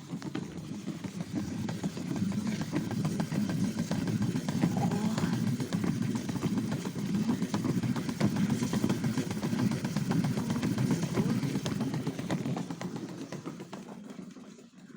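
A toy washing machine's small electric motor running its wash cycle, a steady buzzing rattle that dies away near the end.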